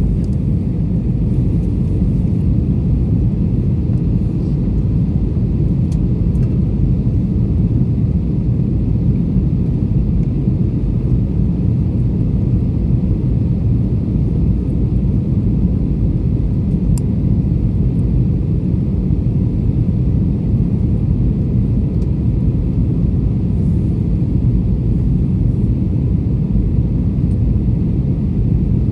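Airbus A320 jet noise: a steady low rumble of engines and airflow that holds the same level throughout.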